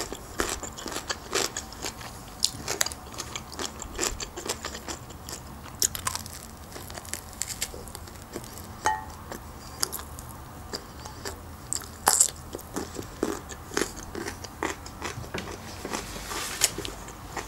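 Close-miked eating sounds of a person chewing: irregular wet mouth clicks and smacks with occasional crunching.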